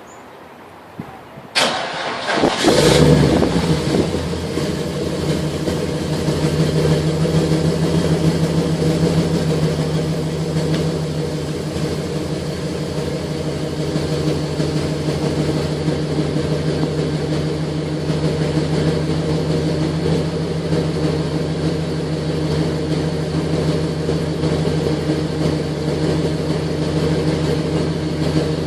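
Holden VS Commodore wagon's V8 being started: the starter cranks briefly about a second and a half in, the engine catches with a quick rev, then idles steadily through its exhaust.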